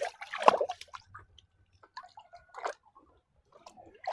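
Muddy plastic toy animal being washed: irregular wet drips, splashes and squishy rubbing sounds, the loudest splash about half a second in.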